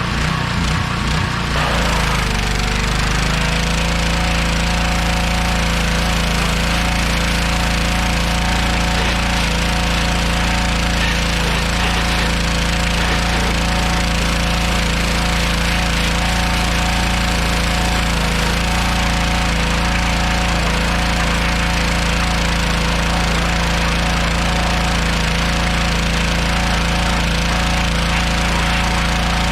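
An engine running steadily with a rough, rapid pulse. Its pitch dips and settles during the first two or three seconds, then holds even.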